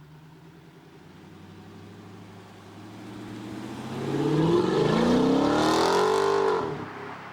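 A car's engine under hard acceleration, its pitch climbing steadily and growing loud for about three seconds, then dropping off sharply near the end.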